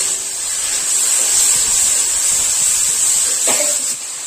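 Masala of onion paste and spices sizzling in hot oil in a steel kadhai with a steady hiss while a spatula stirs it.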